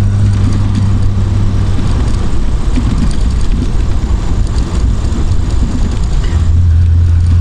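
Triumph Vitesse Mk2's straight-six engine running as the open-top car drives along, with wind and road noise. The steady engine drone gives way to a rougher rumble a couple of seconds in and settles into a steady drone again near the end.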